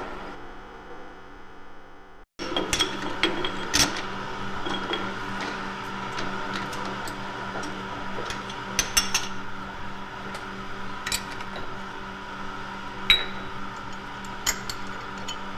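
Small electric motor of a DIY model machine humming steadily, with scattered clicks and light rattles over it. The sound breaks off for a moment about two seconds in, then resumes.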